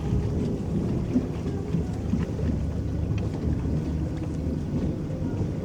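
Electric boat moving across a lake: a steady low rumble with water lapping at the hull and a few faint small splashes.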